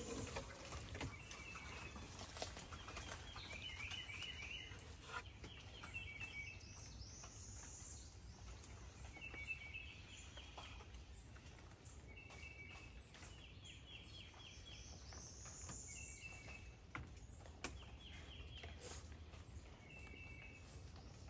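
Faint wild birdsong: a bird repeats a short trilled phrase every second or two, with a higher sweeping note now and then. Scattered faint clicks come through as well.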